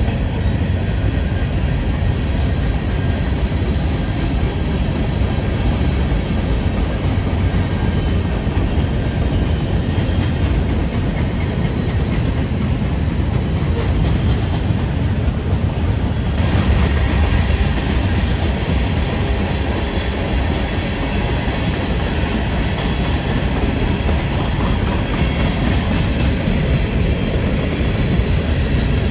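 Freight train rolling past, steel wheels running on the rails in a steady, continuous din with a heavy low rumble. A little over halfway through, the sound turns brighter and more hissy.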